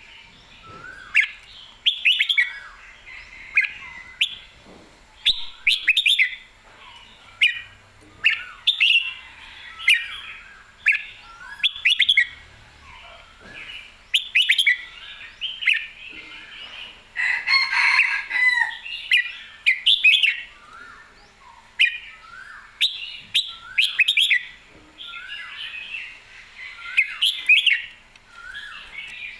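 Red-whiskered bulbul singing short, clear warbled phrases over and over, about one a second, with a denser run of song about two-thirds of the way in.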